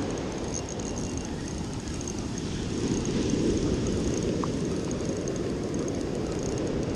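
Steady low rumble of wind and surf on the open beach.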